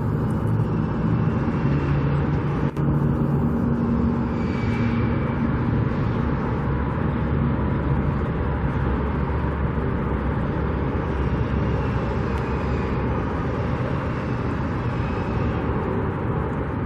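Steady rumble of motor traffic and engines, with a low engine hum standing out in the first few seconds.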